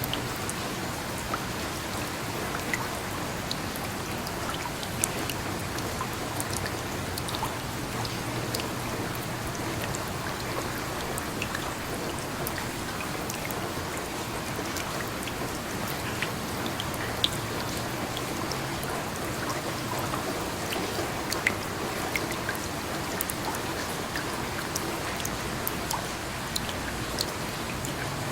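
Steady rain with scattered drop taps standing out from a constant hiss.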